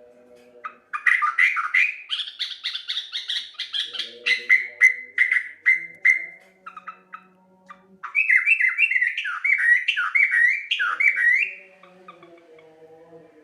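Yellow-vented bulbul (trucuk) singing: a long run of rapid notes from about a second in, a few scattered notes, then a second run of quick rising and falling notes from about eight seconds in that stops near the end.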